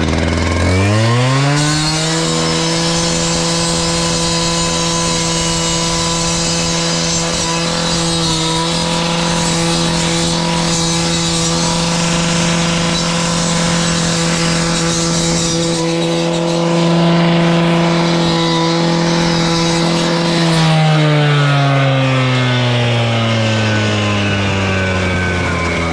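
A fire engine's engine revving up over about two seconds, holding a steady high hum, then falling in pitch over the last few seconds as it slows.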